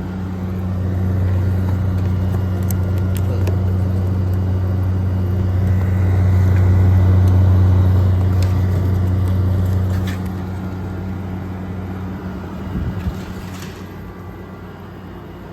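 2023 GE 5,000 BTU window air conditioner running with its compressor and fan on: a steady low hum with rushing airflow. It grows louder over the first seconds and eases off after about ten seconds.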